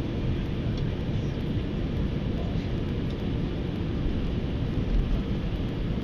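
Airbus A320 jet engines and airflow: a steady, dense low rumble with no distinct tones.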